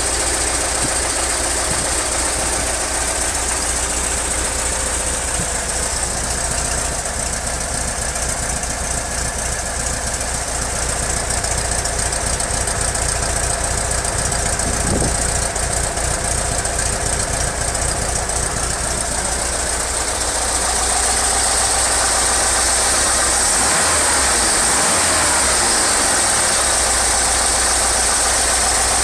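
VW T3 Transporter engine running through its original exhaust at a steady, idle-like speed, a little louder from about 20 seconds in.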